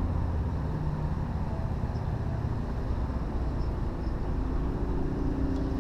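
A boat's motor running steadily with a low rumble. A higher hum joins it near the end.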